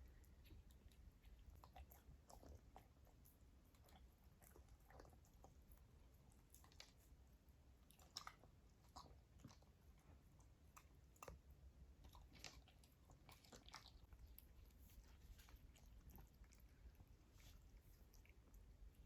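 A pet chewing and biting on pieces of meat: faint, irregular wet crunches and clicks.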